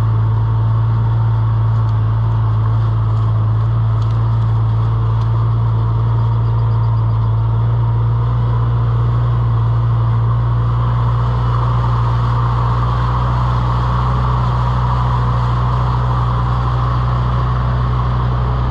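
An engine running steadily with an unchanging low hum.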